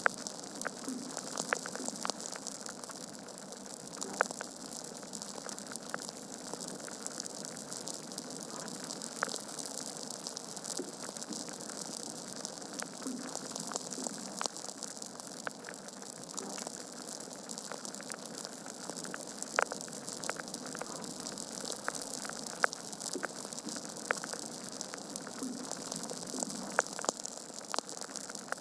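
Wood fire burning in a fireplace: a steady hiss with frequent small crackles and sharper pops from the logs every few seconds.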